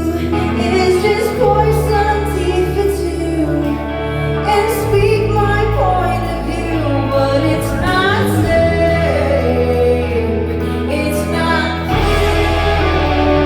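Live band music with a woman singing the lead melody over held bass notes; the band grows fuller near the end.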